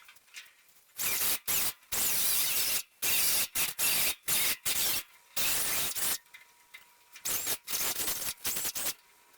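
Welding arc crackling in a string of short bursts that start and stop repeatedly, from about a second in until shortly before the end, as in tack or stitch welding on the car body's steel.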